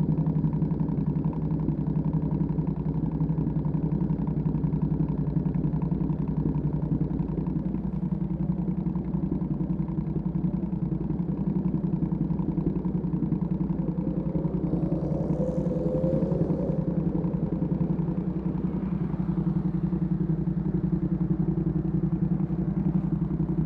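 Ducati Panigale V2S V-twin with a Termignoni exhaust idling steadily at an even pitch, without revving. A faint, brief higher sound comes through about two-thirds of the way in.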